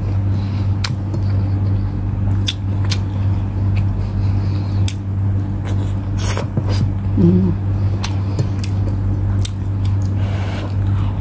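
Close-miked eating sounds: wet chewing, squishing and mouth clicks as rice and adobo chicken are eaten by hand. A steady low hum runs underneath.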